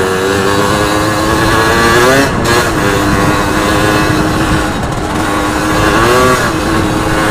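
Yamaha RX Special two-stroke single-cylinder engine running while the bike is ridden. Its pitch holds steady but rises and falls briefly twice, about two and six seconds in, over wind noise on the microphone.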